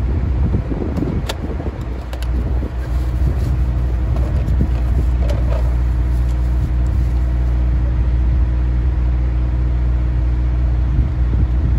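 A vehicle engine running steadily at idle, with a few light clicks about a second in.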